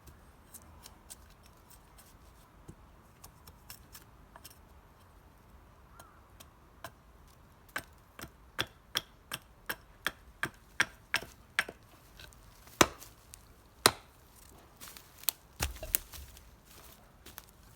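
Sharp knocks: faint at first, then a quick run of about three a second from about eight seconds in, two louder blows about a second apart, and more scattered knocks near the end.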